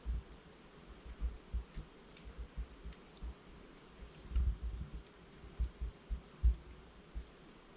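Wood logs burning in a fireplace, crackling with irregular pops and snaps over a soft hiss. The loudest pops bunch together a little past the middle.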